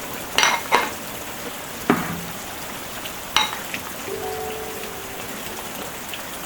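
Food sizzling in a frying pan, with a handful of sharp clicks and knocks of a utensil against the pan as it is stirred.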